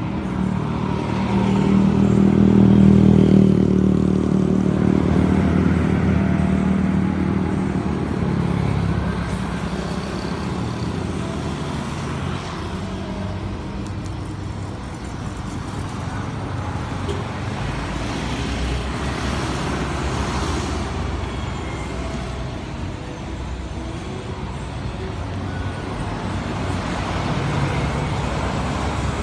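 Car engine running steadily, loudest in the first few seconds, with street traffic noise around it.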